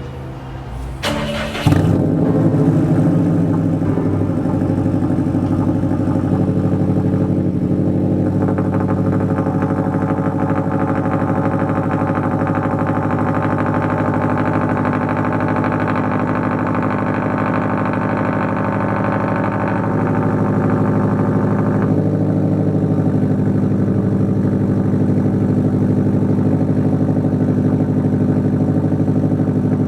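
2015 Subaru WRX STI's turbocharged flat-four engine being cranked and catching within about two seconds, then idling loudly and steadily through a muffler-deleted Cobb turboback exhaust. About twenty seconds later the idle note shifts down and its brighter upper tone drops away.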